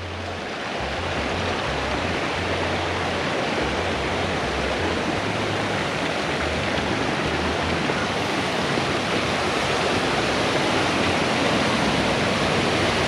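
Mountain creek rushing over rocks: a steady, even rush of water that grows slightly louder.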